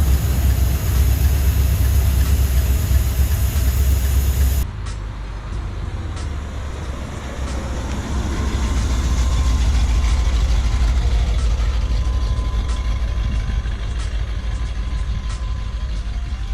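Truck engine running with a deep rumble. About four and a half seconds in it cuts suddenly to a quieter engine rumble.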